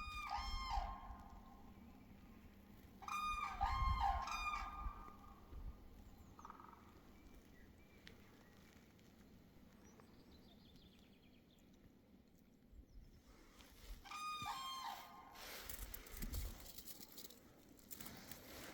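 Common cranes trumpeting: three bouts of loud, ringing calls, the first right at the start, the second about three seconds in and the third near the end. A low rumble comes with the first calls, and a burst of rushing noise follows the last bout.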